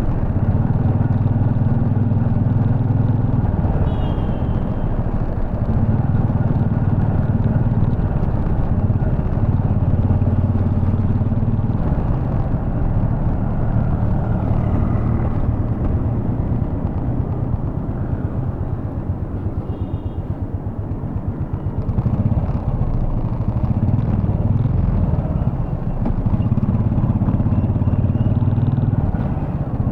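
Royal Enfield Bullet 350 Electra's air-cooled single-cylinder engine running under way, heard from the rider's seat, its low note easing off and picking up again a couple of times. Short high beeps sound about four seconds in and again around twenty seconds.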